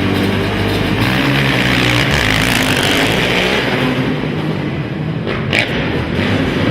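Several racing quad (ATV) engines running at once, revving up and backing off with shifting pitch. A brief sharp sound cuts through about five and a half seconds in.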